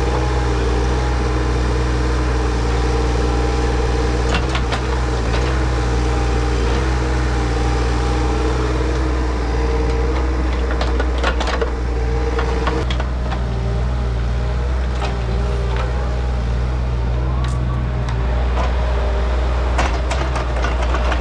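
Diesel engine of a compact digging machine running steadily at working revs, with scattered sharp knocks and scrapes of the bucket against soil and stone.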